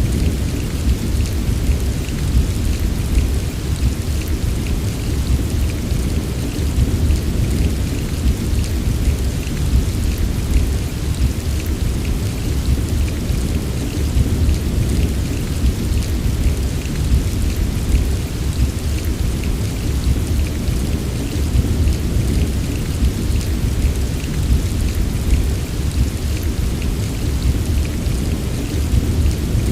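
Heavy rain falling steadily, a dense patter of drops over a constant deep low rumble, with no single clap standing out.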